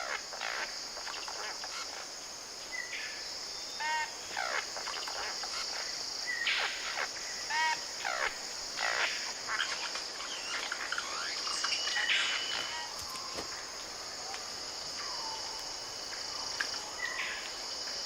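New Guinea rainforest sounds: a steady high-pitched insect drone with many short bird calls over it, some sharp falling notes and a repeated ringing call with several overtones.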